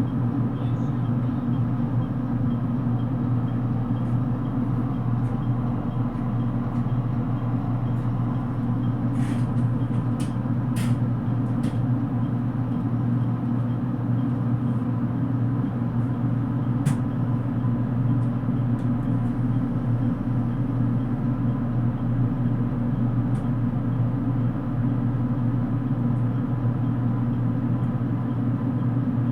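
Steady low hum inside a car of a JR Kyushu 787 series electric express train, with a thin constant tone above it and a few faint clicks around the middle.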